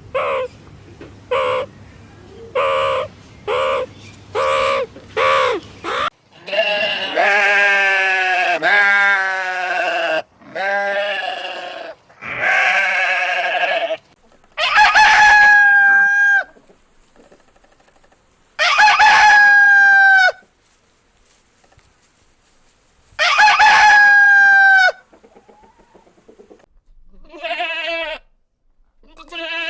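Chickens: a quick run of short clucks for the first six seconds, then longer drawn-out calls, including three long rooster crows that each end in a downward fall.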